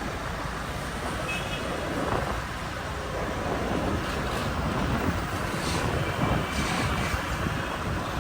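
Street traffic and road noise heard from a moving motorbike: a steady rumble of engines and tyres with wind, and a brief high tone about a second in.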